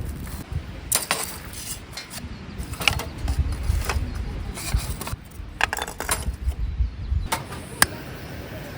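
Scattered clicks, knocks and light clinks of objects being handled, over a low rumble that stops about two thirds of the way through.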